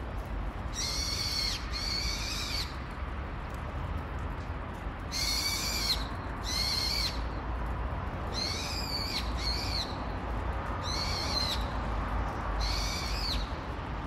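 A small bird calling loudly and repeatedly from a tree: high, shrill calls, each under a second, mostly in pairs, about eight in all.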